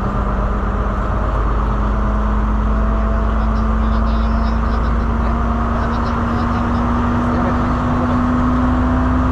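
Train running along the track: a steady rumble with a hum that slowly rises in pitch.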